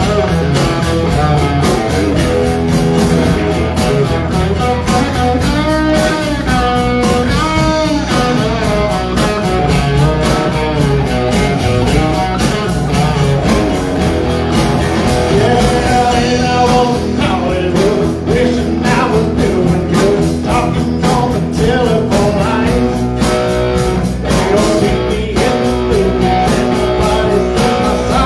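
Live band playing a blues-rock number, with electric guitar leading over bass and a steady drum beat.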